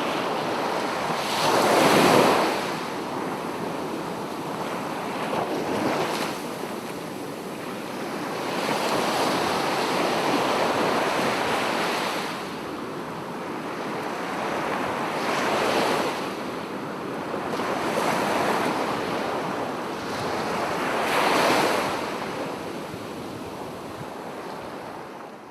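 Sea waves breaking on a beach, surging and receding every few seconds, the loudest break about two seconds in.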